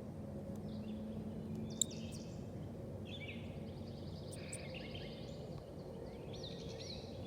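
Small birds chirping, with a rapid trill of repeated high notes lasting a couple of seconds from about three seconds in, over a steady low outdoor rumble. A single sharp click about two seconds in.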